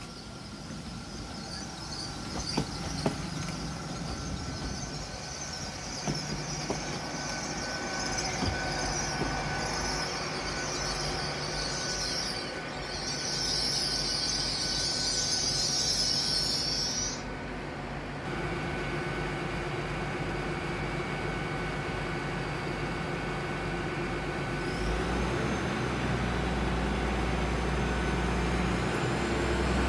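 Class 802 bi-mode IET train pulling out under diesel power and passing close by, its wheels squealing on the curved track for much of the time, with a few clicks of wheels over rail joints early on. About three quarters of the way through a deeper, steady low engine drone joins in.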